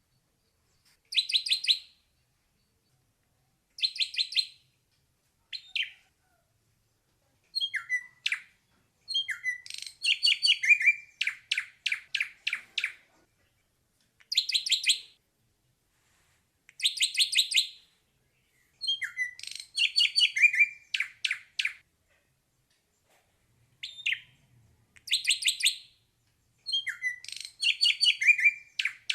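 Ashy drongo singing: phrases of rapid, high, repeated notes mixed with sharp down-slurred whistles, separated by short pauses.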